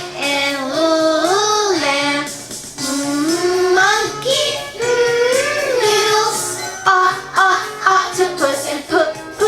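Alphabet-sounds phonics song for children: voices singing a melody over a backing music track. Long held, gliding notes give way to shorter, quicker sung notes near the end.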